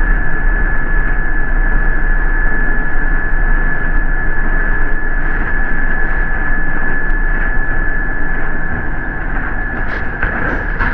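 New York City MTA bus running, heard from inside the cabin: a steady loud rumble of engine and road noise with a thin steady high whine over it. A few sharp clicks or rattles come near the end.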